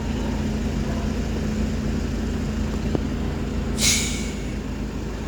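Bus diesel engine running steadily, with a short hiss of released air from its air brakes about four seconds in as the bus pulls away.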